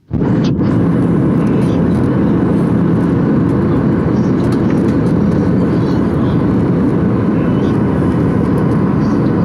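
Steady jet engine and airflow noise inside the cabin of a Boeing 737-800 airliner, holding at an even level.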